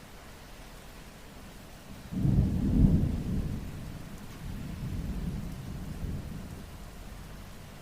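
A clap of thunder rumbles in about two seconds in, loudest within the first second, then rolls away with a second, softer swell, over steady rainfall.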